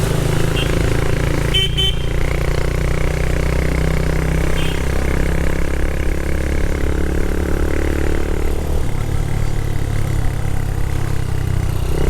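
Motorcycle engine running steadily on the move, with a brief horn beep about two seconds in.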